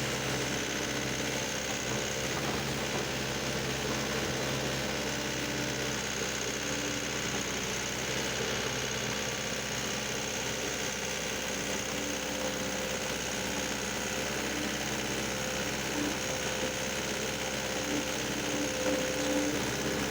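Heavy machine's diesel engine idling steadily.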